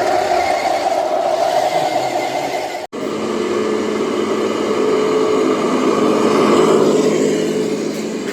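Radio-controlled model vehicle running, its motor holding a steady pitch; the sound cuts off sharply about three seconds in and comes straight back at a lower pitch.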